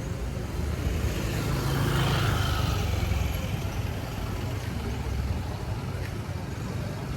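A car driving past at low speed. Its engine rumble and noise swell to a peak about two seconds in, then fade.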